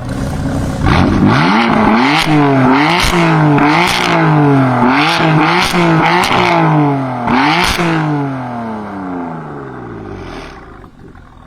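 A BMW performance car's engine revved hard again and again, its pitch climbing and snapping back about eight times, with sharp exhaust cracks at several of the peaks. Then the revs sink slowly and the sound fades out.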